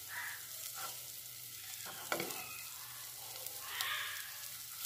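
Halved boiled eggs frying gently in coconut oil in a nonstick pan, a soft steady sizzle. A wooden spatula scrapes and turns them in the pan, with a sharper scrape about two seconds in and another near four seconds.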